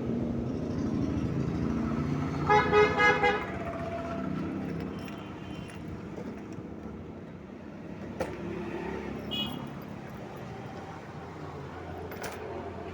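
Road traffic din with a vehicle horn honking a quick run of about four short toots.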